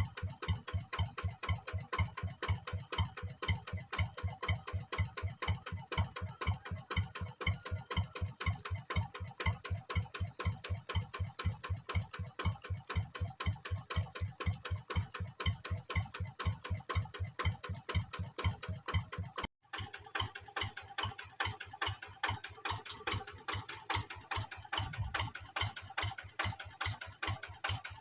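Kubota diesel engine running steadily with an even, rapid chugging beat. About two-thirds of the way through the sound drops out for an instant and comes back slightly brighter.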